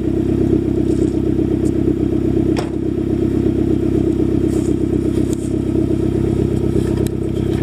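2011 Mazdaspeed3's turbocharged 2.3-litre four-cylinder idling steadily during warm-up after a cold start, heard through an ATP catted downpipe and a non-resonated Ultimate Racing catback exhaust. There is a single sharp click about two and a half seconds in.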